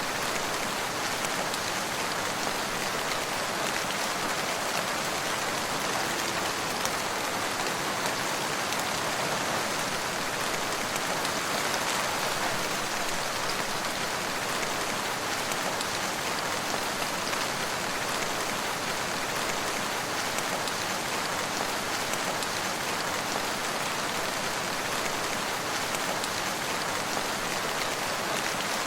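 Steady rain falling and pattering on surfaces, an even hiss of drops with no breaks.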